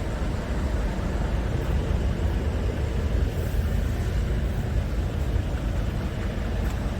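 Scania R450 tractor unit's 13-litre inline-six diesel running steadily, a deep even rumble.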